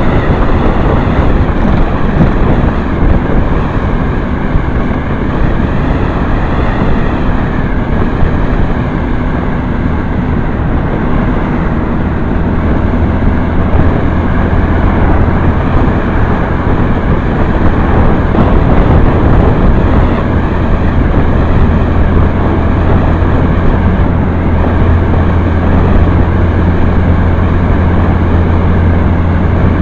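Motorcycle on the move: the engine running with road and wind noise, loud and steady, without pauses. A low even drone holds steady from partway through.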